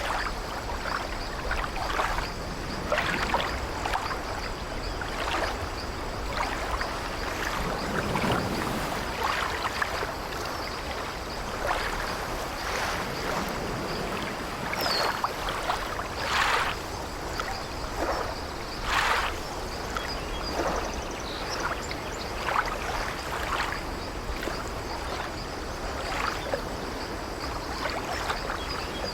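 Sea waves washing steadily against an old wooden sailing ship, with the ship's timbers and deck creaking in many short creaks and a longer, lower groan about eight seconds in.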